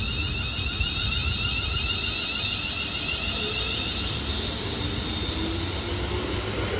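Class 350 Desiro electric multiple unit humming with several high, wavering electrical whines over a low rumble; about halfway through a lower tone begins to rise slowly in pitch as the train starts to draw away.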